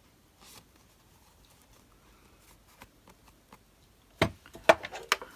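Card stock and paper handled on a craft table: a few faint ticks, then a quick flurry of sharp clicks and rustles about four seconds in.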